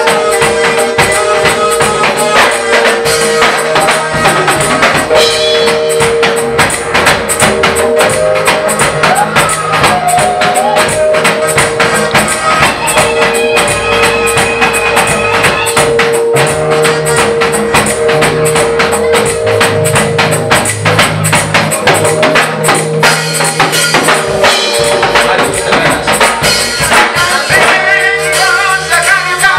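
Gospel praise music played by a church praise team, with a fast, busy tambourine over long held instrumental notes and some singing.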